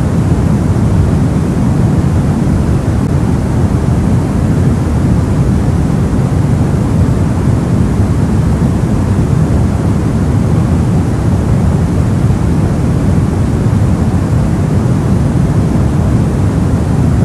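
Steady soft white noise: an even, deep rush with most of its weight low and little hiss on top.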